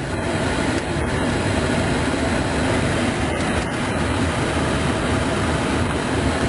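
Heater blower of a 1998 Chevy C1500 pushing air hard and steadily through the dash vents, with the truck's engine idling.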